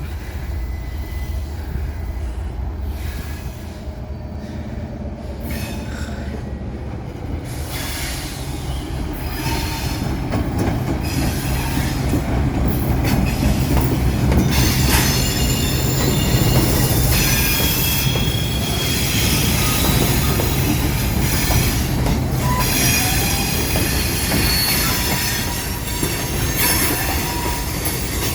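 Train passing: a low rumble that grows louder about a third of the way in, then high-pitched wheels squealing on the rails through the rest, with some clickety-clack.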